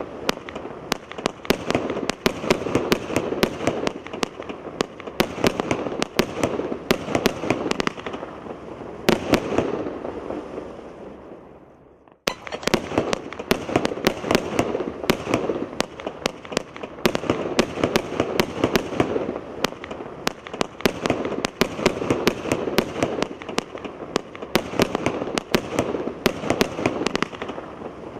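Firework cake firing: a rapid run of sharp bangs, often several a second, over a continuous noisy haze. It dies away about ten seconds in, drops briefly to near silence, then starts again abruptly and keeps firing.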